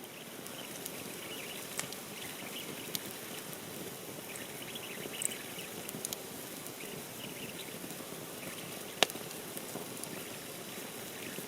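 Wood campfire crackling and hissing, with scattered small pops and one sharp crack about nine seconds in.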